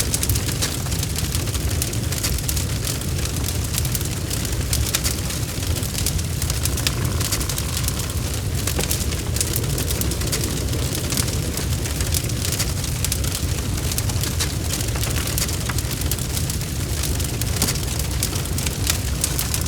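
Log fire burning in a fireplace: a dense run of small crackles and pops over a steady low rumble of the flames.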